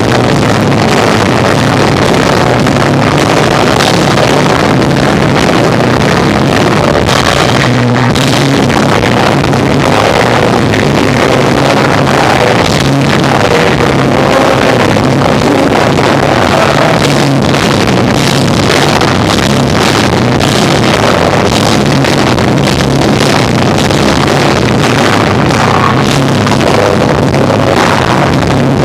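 Live rock band playing electric guitar, bass and drums, recorded so loud that the sound is distorted and muddy.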